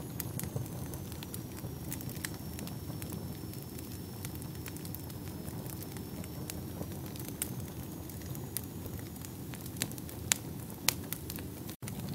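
Wood fire burning in a fireplace: a steady low rumble of flame with frequent small crackles and a few louder pops near the end. The sound drops out for a split second shortly before the end.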